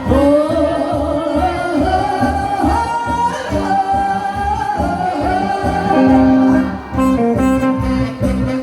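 Korean trot song sung live: a voice holds long, sliding notes over a backing band with a steady beat, then drops out near the end while the instruments play on.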